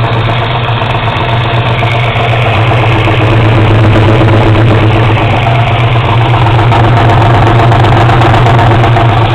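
Small-block Chevrolet 350 V8, built to LT1 spec with a solid-lifter cam, idling steadily and heard from the exhaust end. It gets a little louder about three seconds in.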